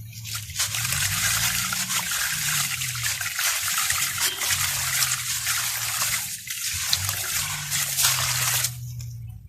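Water trickling and fizzing as dusty chalk-like crumbles dissolve in it, a dense crackling hiss that cuts off suddenly near the end. A low hum runs underneath.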